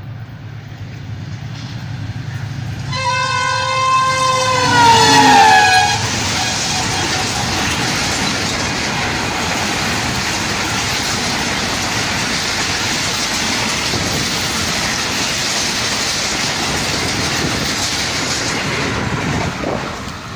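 Express train running through the station at high speed. The locomotive's rumble grows as it approaches, then its horn sounds for about three seconds and drops in pitch as the engine goes past. The coaches follow in a steady rush of wheel and rail noise that fades just before the end.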